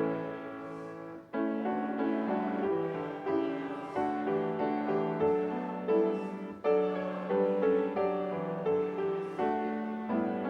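Piano playing a slow church postlude: notes and chords struck and left to fade, a new one every second or so, with a short break about a second in.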